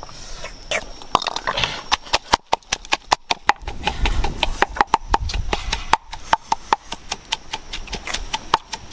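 A fast, uneven run of sharp clicks or knocks, about four a second, starting about a second in.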